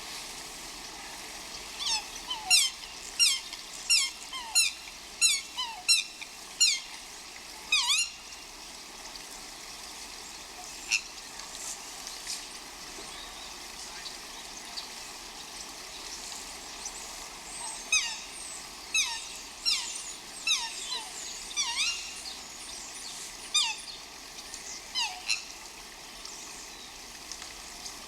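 An animal giving a run of short, sharp calls, each dropping quickly in pitch, about one to two a second, in two bouts with a pause between, over a steady outdoor hiss.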